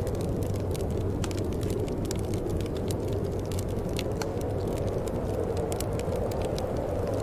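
Wood fire burning in a fireplace: a steady low rumble with many small crackles and pops scattered irregularly throughout.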